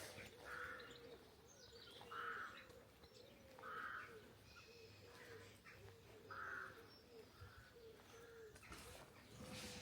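Faint birds calling in quiet countryside, with a short call repeated four times, roughly every two seconds, over a low, wavering background call.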